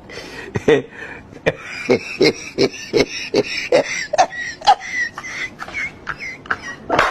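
Wet chewing and lip-smacking of someone eating, a sharp smack about three times a second, with a faint high chirping behind it in the middle stretch.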